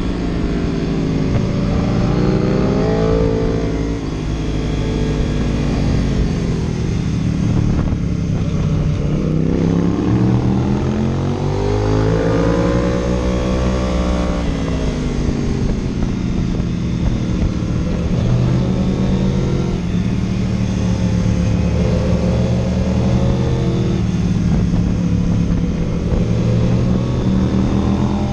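A vehicle engine running hard under way, its pitch climbing and dropping several times as it revs up and falls back, over constant road and wind noise.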